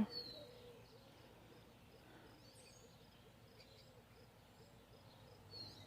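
Quiet outdoor garden ambience with faint bird chirps: a short falling chirp just after the start and another near the end.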